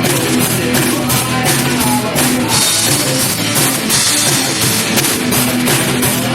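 Live rock band playing an instrumental passage: drum kit with steady, regular strokes under electric guitar.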